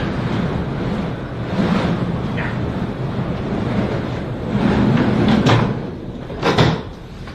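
Strong blizzard wind blowing in gusts, with two sharp knocks about a second apart near the end, after which the wind sound drops.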